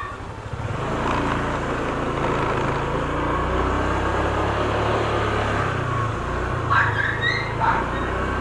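Motorcycle engine running while riding, with the road noise of travel; the engine note shifts about a second in and again about six seconds in, as with a throttle or gear change. A few short, higher chirps sound near the end.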